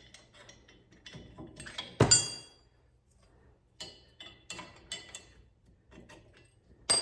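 Big steel washer shims clinking and tapping against metal as they are handled and fitted into the leaf spring slider mount. There are a series of small clicks, with two sharp ringing clinks: one about two seconds in and one at the very end.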